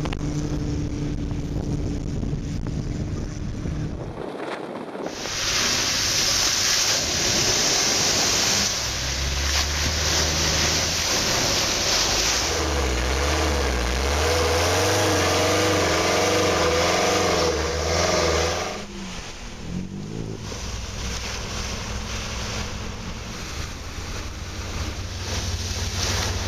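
Off-road 4x4 engines running, with wind buffeting the microphone. From about five seconds in, a loud steady hiss comes from an open engine bay, with an engine revving up and down under it. It drops away after about eighteen seconds into a lower engine rumble as a 4x4 drives through a shallow water crossing.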